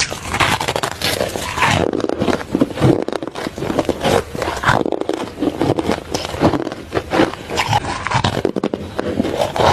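Ice being bitten and chewed close to the microphone: dense, crackling crunches that come in quick successive bites with no pause between them.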